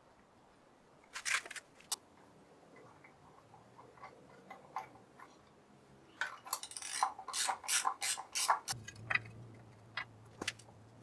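Hand work on metal engine parts: scattered light metallic clicks and clinks, with a dense run of rapid clicks in the second half. A low steady hum comes in about three-quarters of the way through.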